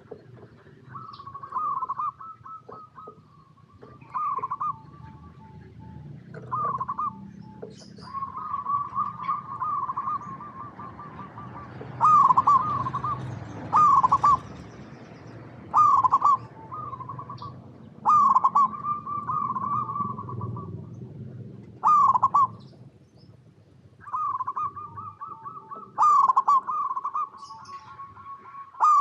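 Zebra doves (perkutut) singing: repeated phrases of quick, trilling coo notes broken by louder, short, down-curving notes every second or two, phrase after phrase with little pause.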